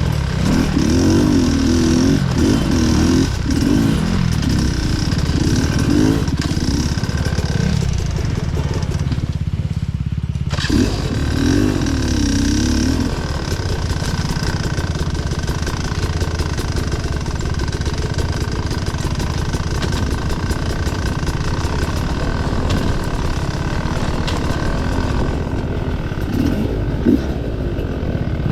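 Off-road dirt bike engine running under constantly changing throttle, its pitch rising and falling as it rides rough trail. About nine seconds in, it briefly backs off to a low burble before pulling again.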